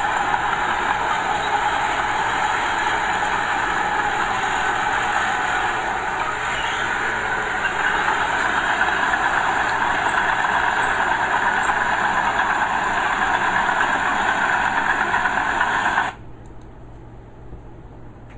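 Diesel engine of earth-moving machinery, a small bulldozer or dump truck, running steadily under work. About 16 seconds in it cuts off suddenly to a much quieter low hum.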